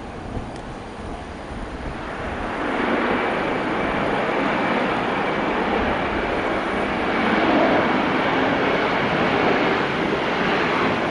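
Jet airliner engines roaring, growing louder about two seconds in and then staying loud, with a faint steady whine above the roar.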